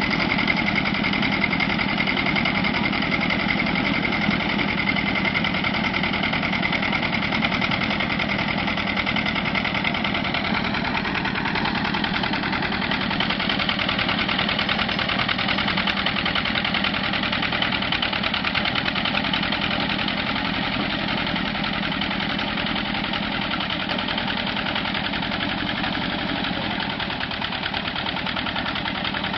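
Mini tractor engine running steadily with a rapid, even firing beat. Its tone changes slightly about ten seconds in.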